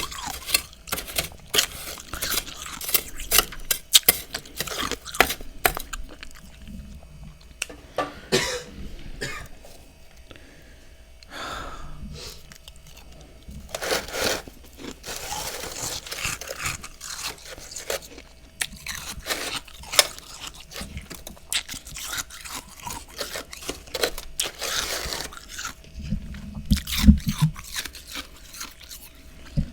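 Close-up crunching and chewing of freezer frost: many sharp, irregular crunches with a few longer noisy stretches.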